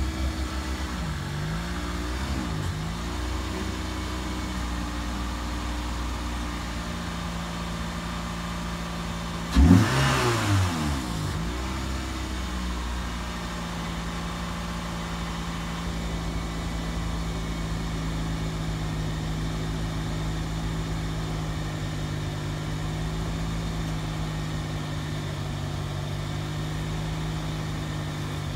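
Toyota Celica GTS's 2ZZ-GE 1.8-litre four-cylinder engine idling, with a few small throttle blips in the first three seconds. Just before ten seconds in it is revved sharply once, the pitch shooting up and dropping back over about a second and a half. It then settles into a steady idle.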